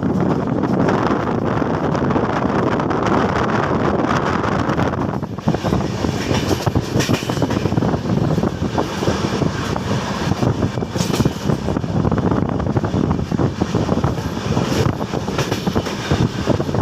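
Train running at high speed: a steady rush of noise, then from about five seconds in a rapid, continuous clatter of wheels over the rails.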